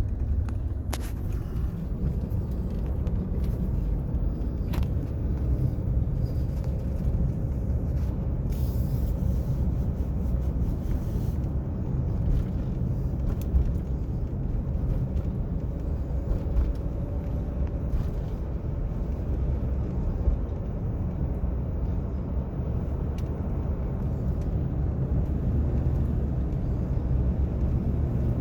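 A car driving along at a steady speed: a continuous low engine and road rumble, with a few light clicks.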